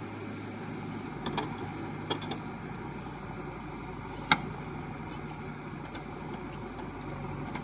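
JCB backhoe loader's diesel engine running steadily, with a few short sharp knocks about a second, two seconds and four seconds in.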